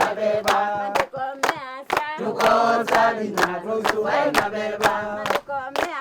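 A group of voices singing together in chorus, with hand-clapping keeping a steady beat.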